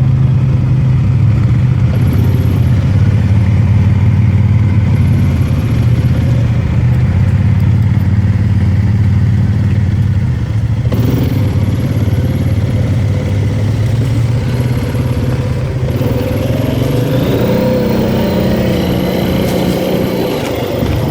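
Four-wheeler (ATV) engine running steadily under way on a dirt trail, with the engine pitch rising a few seconds before the end.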